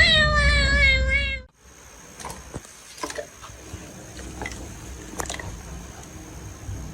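A cat's long, drawn-out meow with a slowly falling pitch, cut off abruptly about a second and a half in. After it come only faint scattered clicks and taps.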